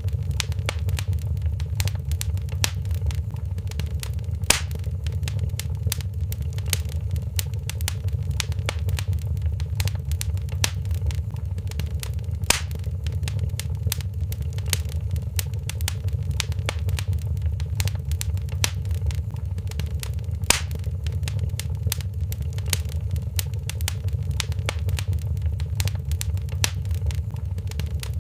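Wood fire in a fireplace crackling steadily over a low rumble, with a few sharper, louder pops every several seconds.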